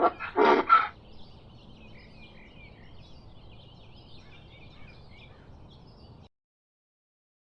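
Donkey braying, its last loud pitched notes ending about a second in. Faint bird chirps follow over low background noise, then the sound cuts off to silence about six seconds in.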